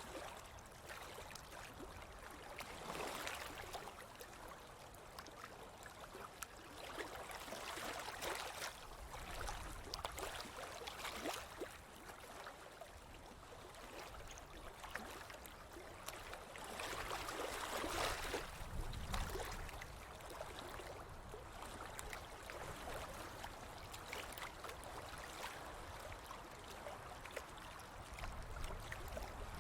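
Ocean waves washing onto a beach, the surf swelling and fading every few seconds, loudest about two-thirds of the way through.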